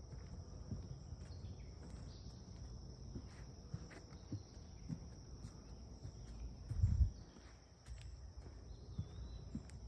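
Insects, crickets by their sound, keeping up a steady high-pitched chirring, over irregular soft footstep thuds and a brief low rumble about seven seconds in.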